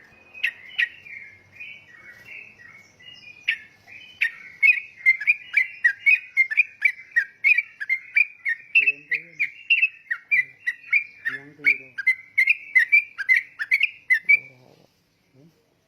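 Yellow-vented bulbul (trucukan) singing a long, fast run of short, loud chattering notes, about two to three a second, which stops just before the end.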